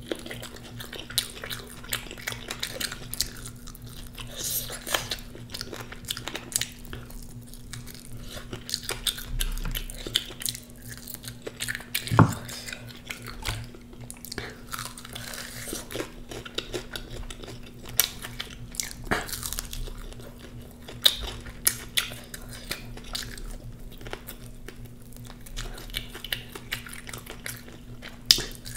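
Close-miked biting and chewing of crunchy fried chicken, with irregular crackles and crunches throughout, over a steady low hum.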